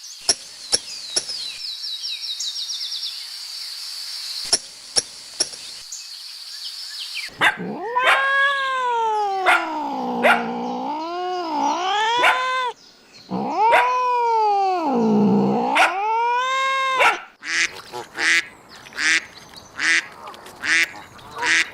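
A series of animal calls. First comes high chirping with a few sharp clicks. Then two long, wavering calls that dip low and rise again, and finally a run of short calls repeated about one and a half times a second.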